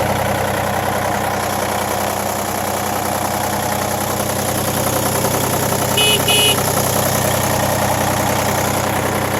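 Iseki TU180F's three-cylinder diesel engine idling steadily. About six seconds in, the tractor's horn sounds two short beeps.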